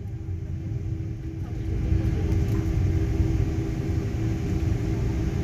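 Airliner noise: a steady low rumble with an engine hum, growing louder over the first two seconds.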